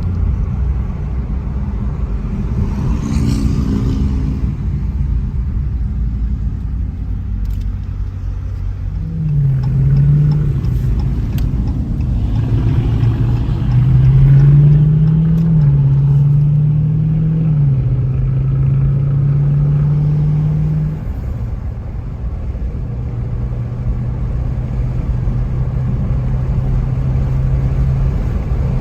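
Dodge Challenger Scat Pack's 6.4-litre HEMI V8 running under a steady low rumble of traffic. About a third of the way in the engine note climbs, drops, then climbs again and stays up for several seconds, stepping down as it shifts. It then settles back to a steady cruise.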